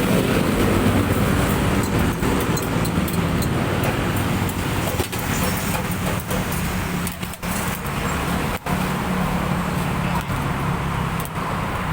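Steady running-engine and traffic-like rumble, a constant low hum under dense noise, which dips out briefly twice past the middle.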